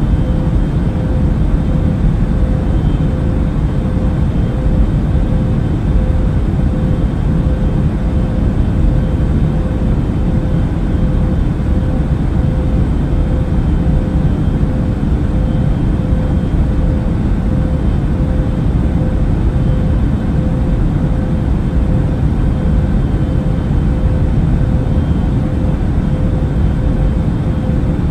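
Airplane cabin noise in flight: a steady, deep rumble of engine and airflow with a constant hum running through it, unchanging throughout.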